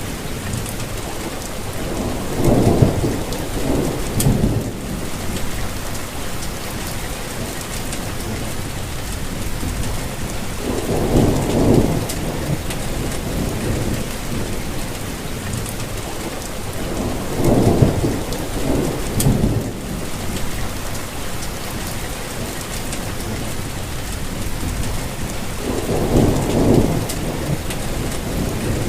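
Steady rainfall, an even hiss of drops, with four low rumbling swells of about two seconds each, recurring every seven or eight seconds.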